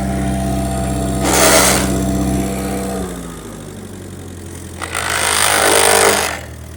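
Ford 8N tractor's four-cylinder flathead engine running steadily, then about three seconds in its speed drops and the pitch slides down to a slower, quieter idle. A loud rushing hiss comes twice over the engine, briefly near the start and again for over a second near the end.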